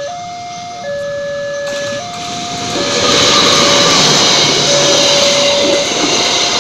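Level-crossing warning alarm sounding two tones that alternate about once a second. About three seconds in, a passenger train's wheels on the rails rise into loud, steady running noise as the coaches pass close by, with the alarm tones still sounding beneath.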